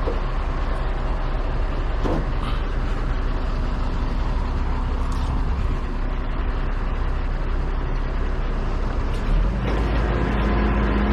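Heavy truck engine running steadily. About nine seconds in, the engine note changes and gets a little louder.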